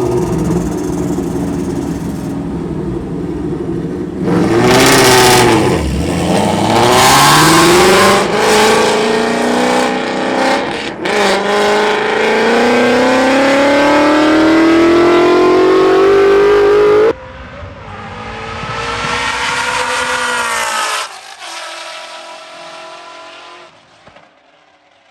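Street-car engines at full throttle in a roll race, accelerating hard through the gears: the pitch climbs in long sweeps and drops back at each shift. The loud run cuts off suddenly about seventeen seconds in; a quieter engine follows and fades away near the end.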